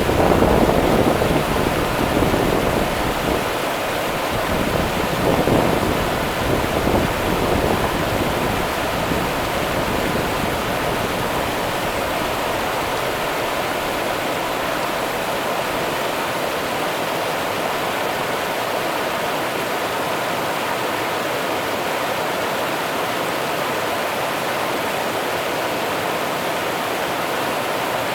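Rio Grande river water rushing steadily, a constant even hiss. A low, gusty rumble in the first several seconds dies away.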